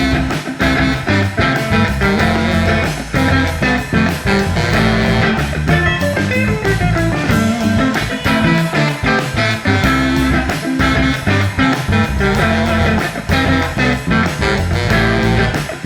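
Instrumental band music: guitar over bass and drums.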